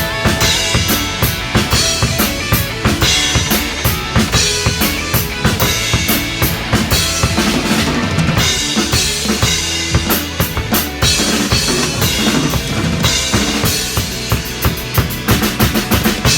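Drum kit played along to the song's backing track: bass drum, snare and cymbals in a busy rock pattern over the recorded music.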